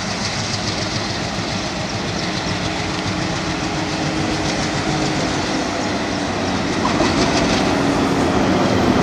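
Diesel-hauled passenger train running into a station: a steady rumble with wheels clattering on the rails, growing louder about seven seconds in.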